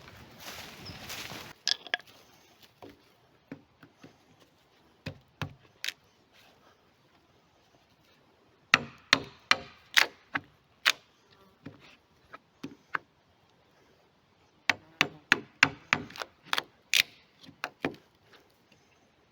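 Blows of a hand tool on wood: a few scattered knocks, then two runs of quick strikes at about two a second.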